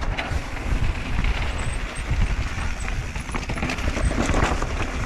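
Mountain bike ridden fast down a dirt trail: tyres rolling over dirt and rock, the bike rattling, with steady rumbling noise and scattered knocks.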